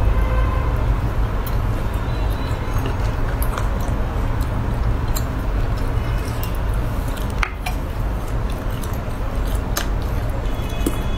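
Close-up chewing and biting of cooked sea snail meat, wet mouth sounds with scattered sharp clicks, over a steady low rumble.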